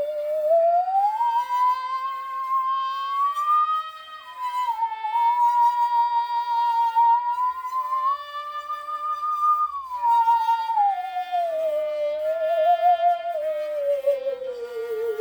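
Musical saw playing a slow melody, sliding smoothly from note to note with vibrato, over a backing accompaniment. The line climbs in the first few seconds, holds high, then slides down and ends on a low note with wide vibrato.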